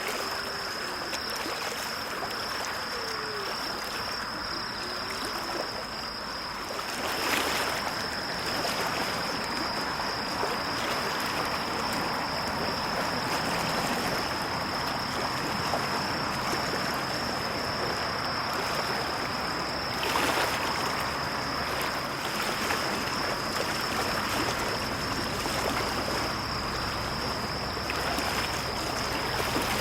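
Small lake waves lapping at the shore in a steady wash, with two louder swells, about seven seconds in and again about twenty seconds in. A thin, steady high-pitched tone runs through it.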